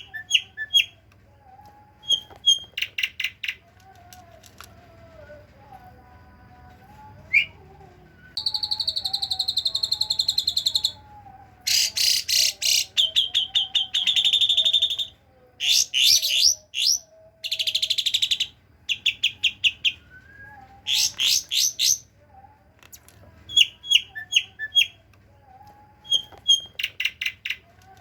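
Songbird calls on a birdsong training recording: short runs of sharp, high chip notes alternate with dense, fast rattling trills lasting one to three seconds each, with brief pauses between phrases.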